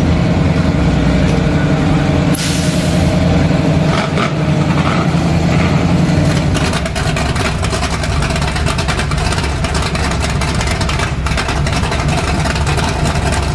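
A vehicle's engine running with a steady low rumble, with a short burst of hiss about two and a half seconds in.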